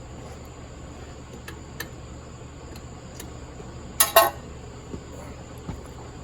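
Two quick, loud clacks close together about four seconds in, like a tool or part knocking against the engine, with a few faint ticks of handling. Under them runs a steady low hum and a thin, steady high tone.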